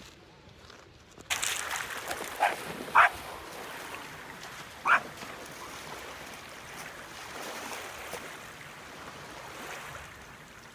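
Golden retriever barking three short times over a steady rush of surf that starts suddenly just over a second in.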